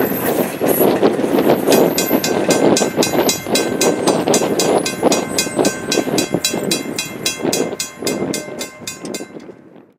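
Steam-hauled train running past on jointed track, its wheels clicking in a steady rhythm of about four a second, fading out near the end.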